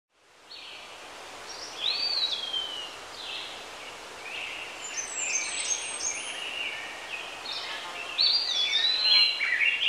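Several songbirds singing and chirping over a steady outdoor hiss, with many short whistled notes and quick pitch glides, fading in at the start and busiest near the end.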